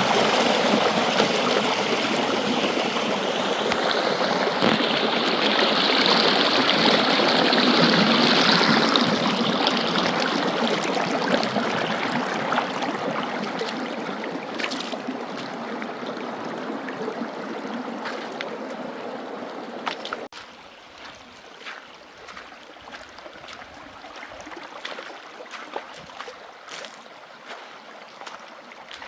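Running water, a dense steady rush that slowly fades and then drops abruptly about twenty seconds in to a much quieter flow with a few faint clicks.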